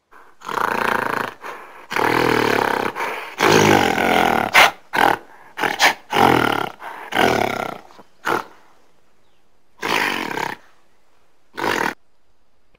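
An animal giving a string of loud calls, some about a second long and some short and clipped, close together at first and then more widely spaced in the second half.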